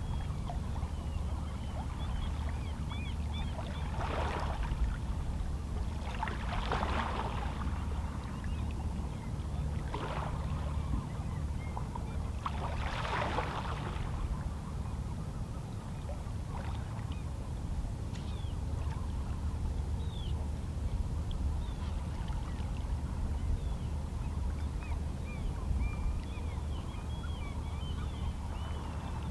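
Small calm-sea waves lapping and splashing against shoreline rocks, in several separate washes over a steady low rumble of the sea, with faint seabird calls throughout.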